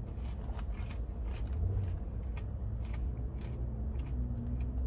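A person chewing fries, with scattered faint mouth clicks, over a steady low rumble.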